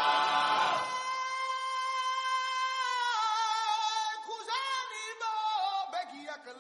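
Unaccompanied voices singing: a choir holds a chord, then about a second in a single voice holds one long note and goes on into a short melody that bends up and down in pitch.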